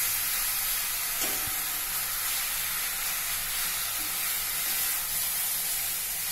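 Mushrooms in onion-tomato masala sizzling in a kadai as they are stirred, a steady hiss with one light knock about a second in.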